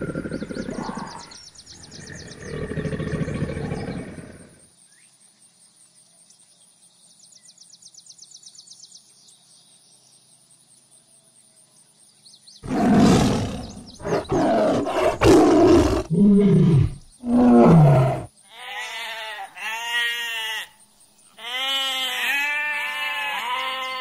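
A low, rough rumble for the first four seconds, then after a quiet spell a tiger roaring and growling several times, the last two roars falling in pitch. Near the end, sheep bleating in short, wavering runs.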